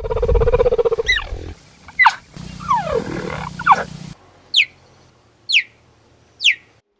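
Animal calls: a loud, rough, low call at first, then sweeping cries, then three short, high calls about a second apart, each falling steeply in pitch.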